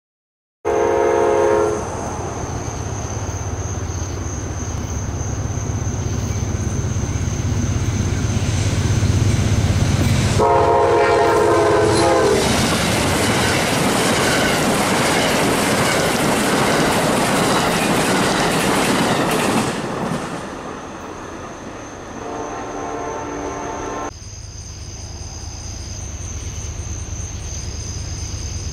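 Amtrak passenger train passing at speed. The locomotive horn sounds a short chord blast about a second in and a longer one about ten seconds in, then the cars rush by with loud wheel and rail noise for about eight seconds. After the train has passed, a fainter horn blast follows, then crickets chirping.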